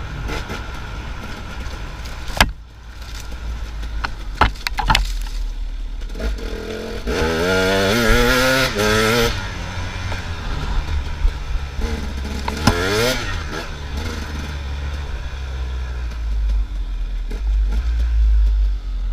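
Dirt bike engine revving up, its pitch climbing about seven seconds in and again more briefly later, over a steady low rumble, with a few sharp knocks early on.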